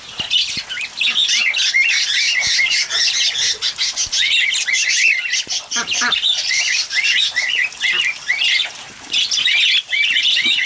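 Cockatiels squawking and chirping in a rapid run of short, arched calls.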